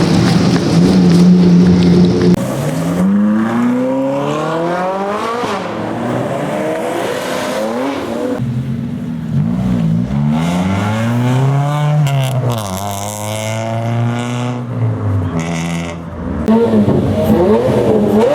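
High-performance car engines revving hard, their pitch climbing steeply and falling away several times, after a steady hold at the start.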